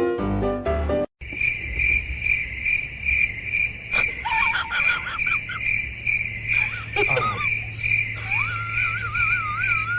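Cricket chirping steadily in a fast, even pulse, after piano music breaks off about a second in. A few short warbling calls rise and waver over the chirping from the middle to the end.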